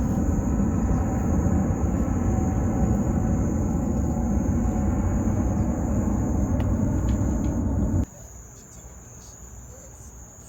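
Crickets trilling steadily, one high continuous band. For the first eight seconds a loud low rumble covers it, then the rumble cuts off suddenly, leaving the insect chorus.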